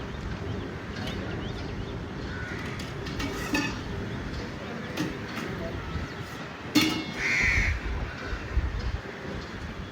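Short harsh calls over steady outdoor background noise, the loudest just after a sharp knock about seven seconds in.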